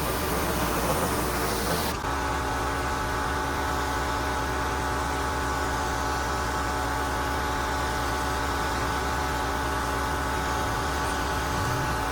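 Pressure washer running steadily with a hiss of spray that drops away sharply about two seconds in, leaving the steady machine hum.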